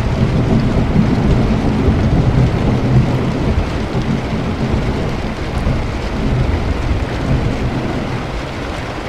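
Thunderstorm: steady rain with a long low rumble of thunder that is strongest in the first few seconds and slowly eases off.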